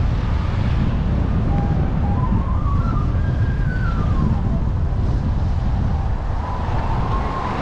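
Wind rumbling on the microphone of a moving e-bike, with a single tone that rises for about two seconds and then falls away, like a distant siren's wail.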